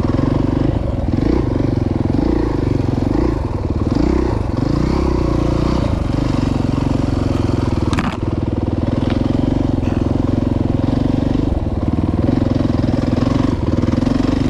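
Dirt bike engine running under throttle on a trail ride, its pitch rising and falling with throttle changes in the first several seconds, then holding steadier.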